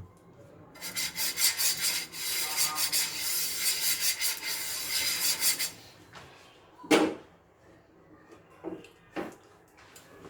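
A brush spreading oil over a cooking pan: fast, scratchy rubbing for about five seconds, then one knock and a couple of light clicks.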